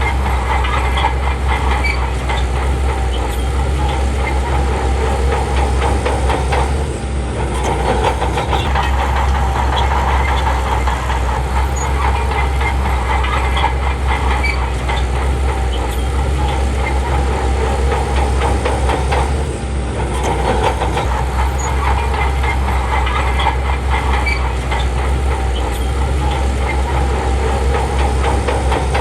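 Shantui crawler bulldozer working: its diesel engine runs steadily under load while the steel tracks clank and rattle. The sound dips briefly twice.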